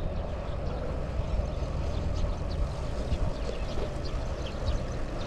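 Riding noise from a mountain bike heard on a handlebar or body-mounted action camera: wind rumbling over the microphone and tyres humming on the road, with faint scattered ticks.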